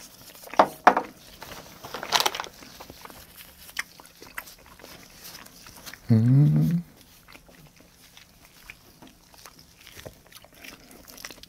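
Close-miked chewing of raw salmon sashimi: soft, wet mouth clicks and smacks, the loudest in the first couple of seconds. About six seconds in comes a short, rising "mmm" hum of enjoyment.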